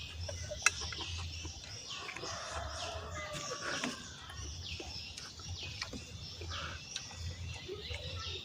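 Birds calling: short, high, falling notes repeating about once a second, with a longer, lower call between about two and four seconds in. Scattered sharp clicks through it.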